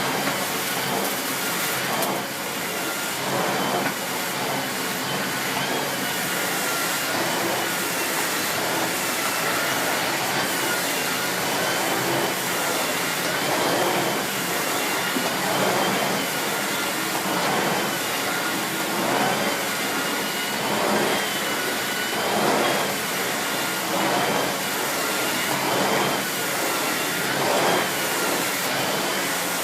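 Miele C2 Compact / S6 Cat and Dog cylinder vacuum cleaner with its 2000 W motor running steadily, a whine that wavers slightly in pitch over the rush of air. Regular surges come about once a second as the floorhead is worked back and forth.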